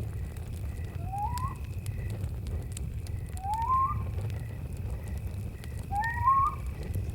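Campfire crackling, with a low rumble and scattered sharp pops, under a steady chirring of crickets. A rising whistled bird call sounds three times, about two and a half seconds apart.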